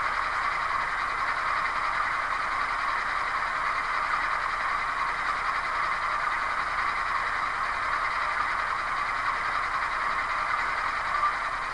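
Model locomotive's DCC sound decoder playing a GE diesel engine sound through its small speaker, running steadily with no change in pitch or loudness.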